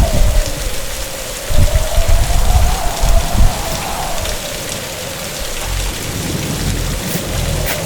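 Heavy storm rain pouring down, with deep rumbles of thunder in the first few seconds and a thin wavering whistle running through it. A single sharp crack comes near the end.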